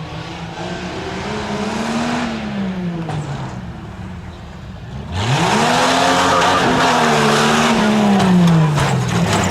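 Competition off-road truck's engine revving up and falling back, then about halfway through a sudden, much louder burst of throttle: the revs sweep up, hold high for a few seconds and fall away near the end.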